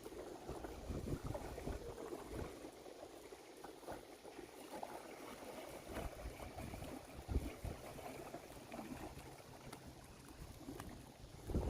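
Faint water sounds at the waterside, uneven and low-pitched, with a few soft knocks about halfway through.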